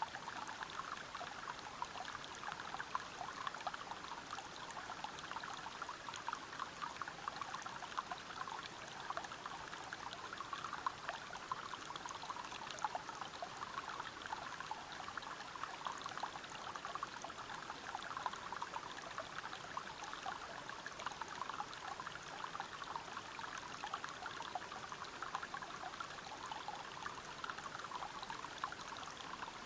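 River water flowing over rocks: a steady rush of water, peppered with many small splashes.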